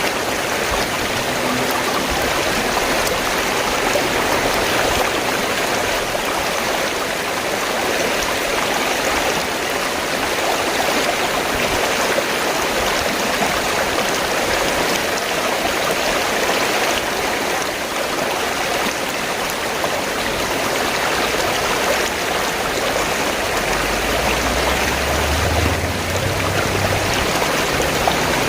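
River water flowing and splashing steadily in an even rush, with a low rumble joining in near the end.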